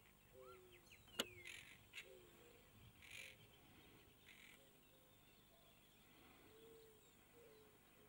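Faint bird calls: a string of short low notes, with a sharp click about a second in.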